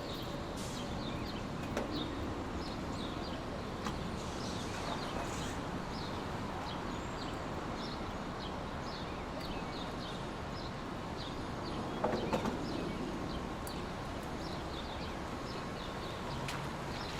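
Steady rushing noise from a sleep-noise track, with faint short high chirps recurring about twice a second and a brief louder rustle about twelve seconds in.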